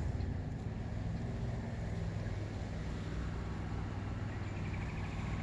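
Steady low engine-like hum over an even rumbling background, unchanging throughout.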